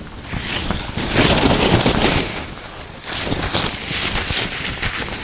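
Tent fabric rustling and crackling as it is handled, in two swells.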